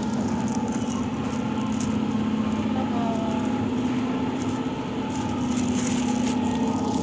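Steady hum with a dense background din, unchanging throughout.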